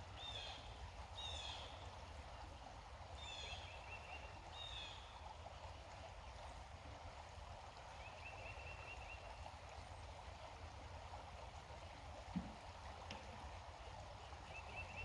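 Faint woodland ambience: wild birds calling, with short falling chirps repeated in the first five seconds and a trilled call a few times, over a steady low rush. A single soft thump comes about twelve seconds in.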